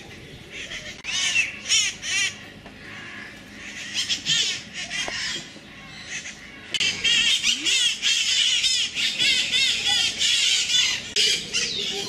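Birds squawking: many short, repeated calls, scattered at first and then a dense, continuous chorus from about seven seconds in.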